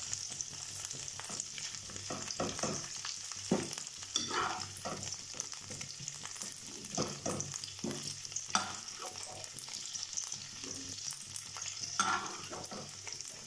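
Broccoli florets sizzling in hot oil in a nonstick kadai, with a steady hiss, while a steel spoon scrapes and knocks against the pan now and then as the fried florets are lifted out.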